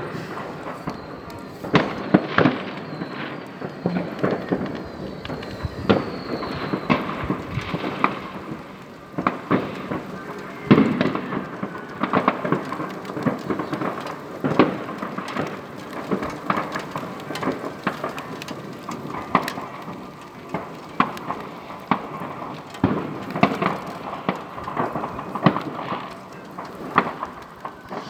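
New Year's Eve fireworks going off all around: a steady rumble of bangs and crackling, with louder sharp bangs every second or so at irregular intervals.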